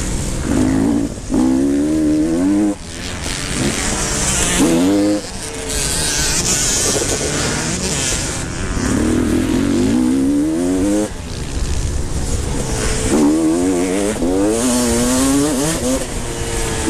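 Motocross bikes racing on a dirt track, engines revving up and down in repeated bursts as the riders accelerate and shift through the gears.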